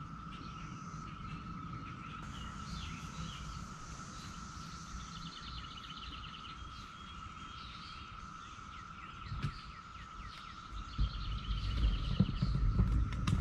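Outdoor ambience of birds chirping and trilling over a steady high, even tone. A low rumble swells in the last couple of seconds.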